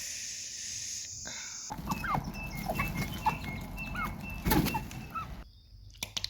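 Chickens clucking with short rising calls over a rumbling background. For the first second and a half, crickets chirp steadily.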